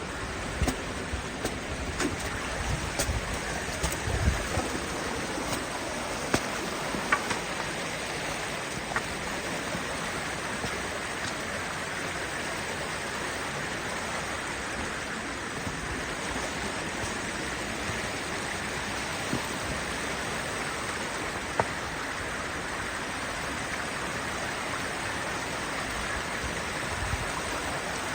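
Steady rush of fast-flowing creek water, Kanarra Creek running through the canyon. A few sharp knocks and low bumps sit over it, mostly in the first eight seconds, with one more about two-thirds through.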